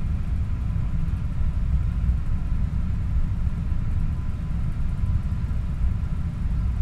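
Steady low background rumble of room tone, with no speech or music.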